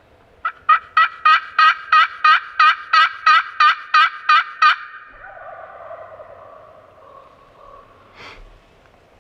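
A run of about thirteen loud turkey yelps, about three a second, stopping about five seconds in. A fading lower sound follows, then a short click near the end.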